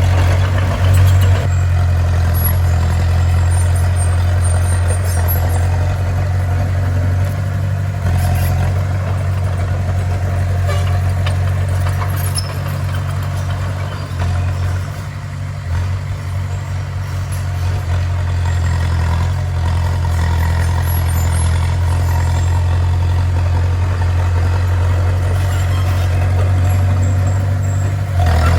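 Bulldozer's diesel engine running steadily with a heavy low hum, easing off a little about halfway through.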